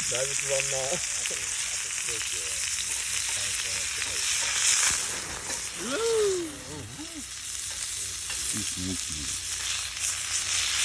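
Food frying in a hot pan over a fire: a steady, crackling sizzle with no break.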